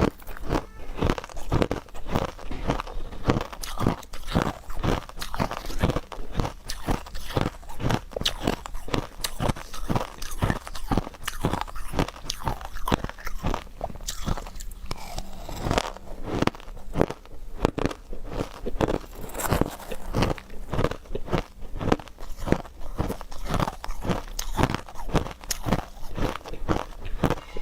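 Close-miked chewing of refrozen powdery ice: a steady run of soft crunches, about two or three a second.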